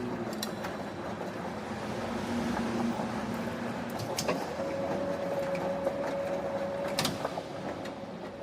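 Factory machinery running with a steady hum. A higher steady tone sets in about halfway through, and a few sharp metallic clanks come through, the loudest about seven seconds in.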